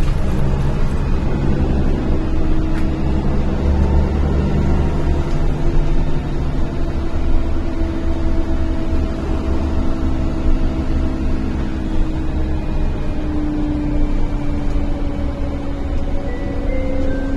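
Inside a NefAZ-5299 city bus under way: steady low engine and road rumble with a drawn-out whining tone that falls slowly in pitch over the last few seconds.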